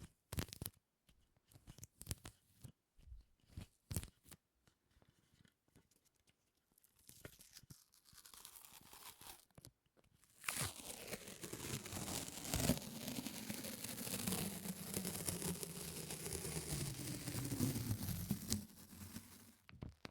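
Close-miked sticky ASMR sounds: scattered tacky clicks and pops, then from about halfway a long, continuous crackling, tearing peel of a sticky surface lasting about nine seconds.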